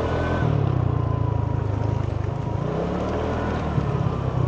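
A Piaggio Liberty 150 scooter's single-cylinder four-stroke engine and belt drive, freshly fitted with a Malossi variator, new belt and clutch, running on the move. It eases off briefly about halfway through, then picks back up, with a faint thin whine over the engine note.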